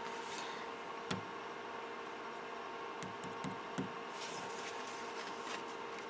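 Flashforge Adventurer 5M 3D printer standing powered on, its fans giving a low steady hum, with a few light clicks and taps about a second in and again around three to four seconds in.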